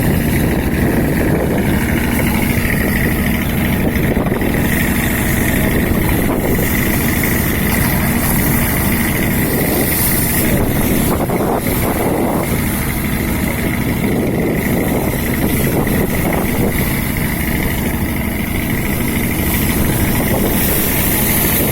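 Fishing boat's engine running steadily with an even, unbroken hum.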